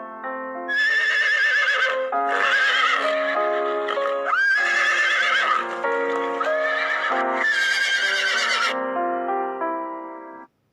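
Horse whinnying several times in shaky, trilling calls over background music with steady held notes.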